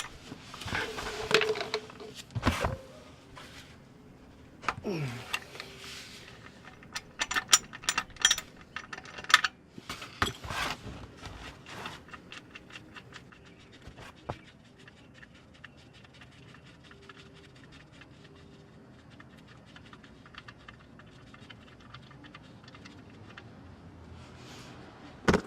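Quick clicks and metal clatter of a wrench working a car's 17 mm oil drain plug loose. A few sharp knocks come first, then a dense run of clicks, then fainter, sparser ticks.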